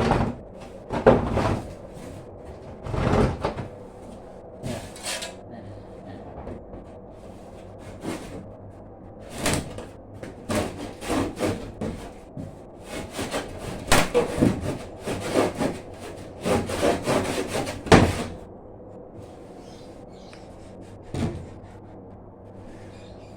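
Wood being knocked, shifted and scraped in irregular bursts during repair work, with a few sharper knocks; it quietens over the last few seconds.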